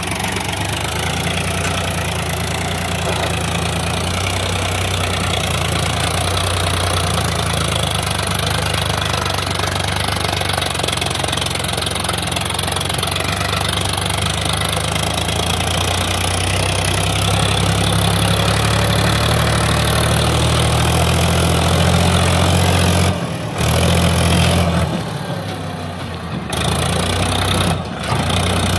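Tractor diesel engine running steadily with a deep, even drone; the sound drops away briefly a few times near the end.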